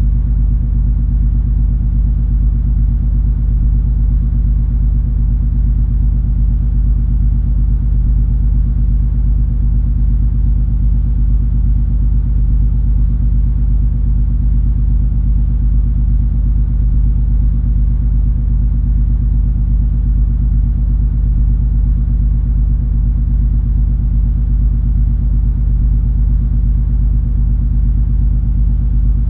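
Steady low rumble and engine drone of the cruise ferry MS Color Fantasy under way, a constant deep hum with no changes.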